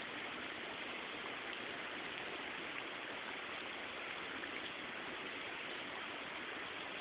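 Heavy rain falling in a downpour: a steady, even hiss of rain with no let-up.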